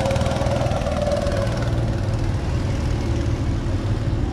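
Petrol go-kart engines running steadily, with a mid-pitched engine whine that fades out in the first second and a half.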